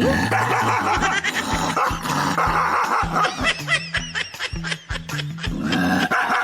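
Background music with a steady bass beat, and a dog making short high-pitched calls over it, clustered in the middle.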